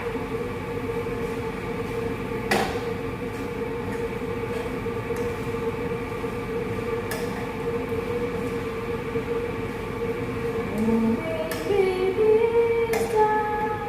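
Steady mechanical hum with one constant tone, with a few sharp clinks of a utensil on the cooking pan. Near the end someone hums a short tune over it.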